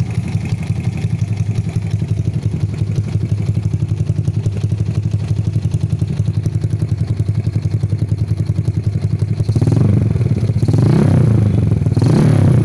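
Small single-cylinder Yamaha motorcycle engine idling through an aftermarket stainless-steel short hexagon exhaust, with a bass note, then revved twice briefly near the end.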